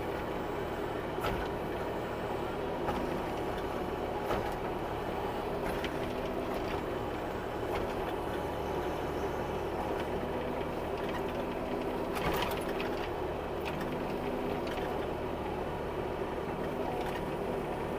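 Bobcat E26 mini excavator's diesel engine running at a steady speed, with a few faint short knocks from the working machine.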